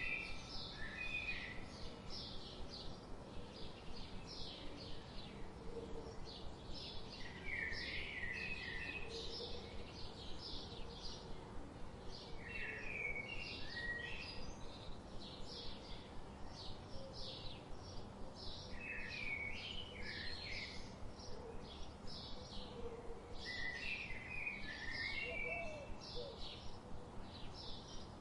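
Songbirds chirping: a steady run of short high chirps, about two a second, with a lower warbled phrase recurring every five or six seconds.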